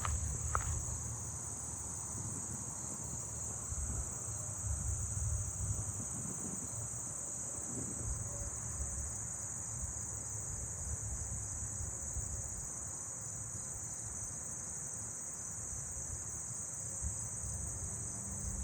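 Steady, high-pitched insect chorus of crickets and katydids, with short-winged meadow katydids faintly heard among them as a soft repeating pulse. A low rumble runs underneath.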